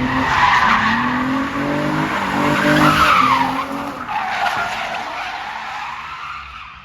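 Car drifting through a transition: tyres squealing loudly while the engine's pitch rises and falls with the throttle. The sound is loudest about three seconds in and fades away near the end.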